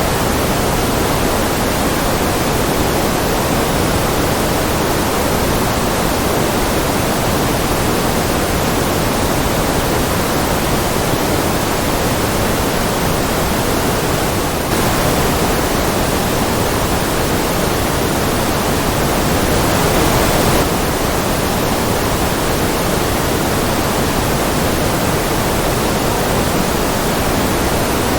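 Steady synthetic white noise, a constant even hiss across all pitches with no changes or events.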